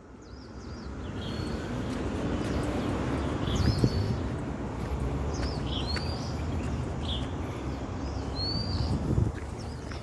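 Birds calling from roadside trees: repeated short, rising whistled chirps, over a steady low background rumble, with two dull bumps about four and nine seconds in.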